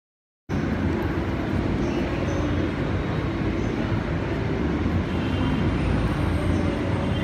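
Manila LRT Line 1 light-rail train running with a steady, loud rumble, heard from the station platform; it starts abruptly about half a second in.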